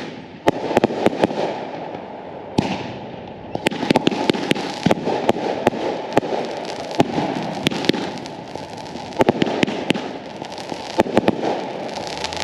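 Fireworks going off: a continuous crackle with many rapid sharp pops and bangs, dense throughout and coming in clusters.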